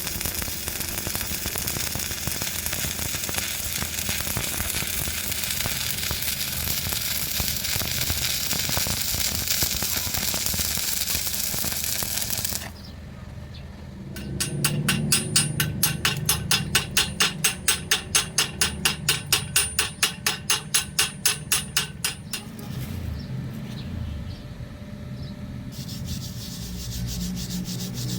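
Stick (arc) welding on steel plate: the electrode arc hisses and crackles steadily for about twelve seconds, then cuts off suddenly. After a short pause come regular rubbing or scraping strokes, about three a second, for some eight seconds, then quieter low noise.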